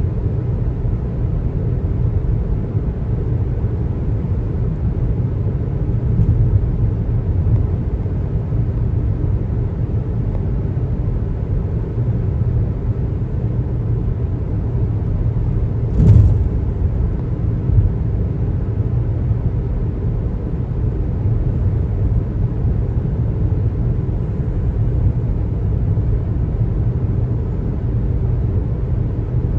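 Car driving on a highway: steady low road and tyre rumble, with a single sharp knock about halfway through and a smaller one a couple of seconds later.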